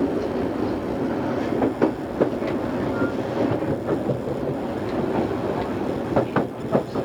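Odakyu 2600 series electric train running, a steady rumble of wheels on rail, with clacks over rail joints about two seconds in and again a cluster of them near the end.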